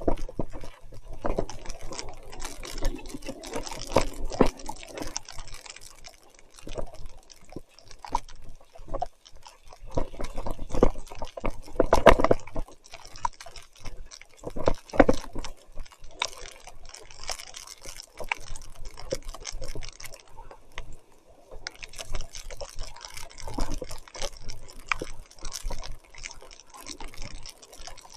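Mountain bike being ridden through mud and water in heavy rain: irregular splashing and dripping with many small clicks and knocks. There are louder surges of splashing about twelve and fifteen seconds in.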